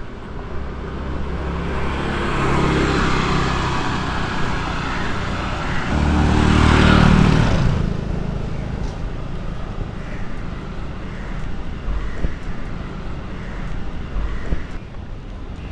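Motor vehicle traffic passing close by, with engine and tyre noise building up and fading away. The loudest pass comes about seven seconds in, and lower street noise follows.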